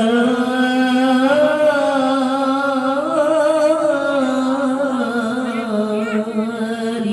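A single voice sings one long drawn-out vowel in Arabic devotional chant (sholawat), the pitch wavering slowly throughout. The pitch rises a little about three seconds in and eases back down later.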